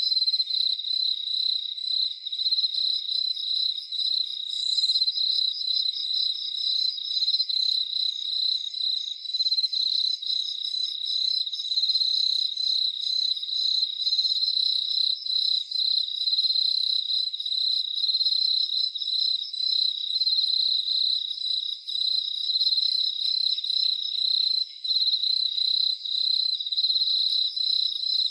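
Crickets chirping in a steady, high-pitched, finely pulsing trill, with fainter, higher chirps from other insects joining in for a while in the middle.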